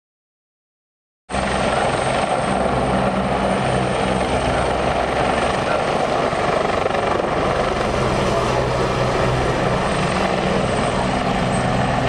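After about a second of dead silence, a helicopter's engine and rotor sound cuts in abruptly and runs steadily, a constant low hum under a broad rushing noise.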